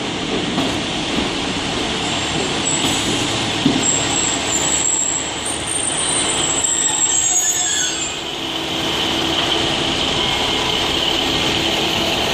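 A train moving through a station with a high-pitched metallic wheel squeal from about two and a half seconds in until about eight seconds in, then steady train running noise.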